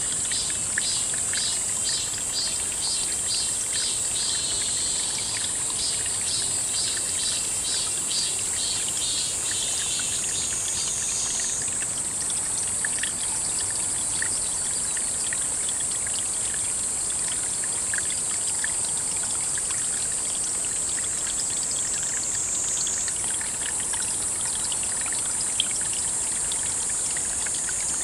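Water trickling and running steadily into a pond, under a constant high-pitched insect drone. For the first dozen seconds a rhythmic chirp pulses about twice a second, then stops.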